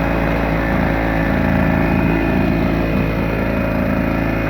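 Small two-stroke portable generator engine running steadily at constant speed.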